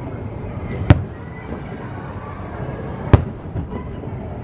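Fireworks shells bursting overhead: two sharp booms a little over two seconds apart.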